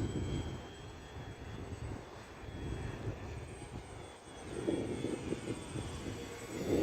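Homemade RC airplane in flight, its motor and propeller droning faintly over an unsteady low rumble that swells louder near the end.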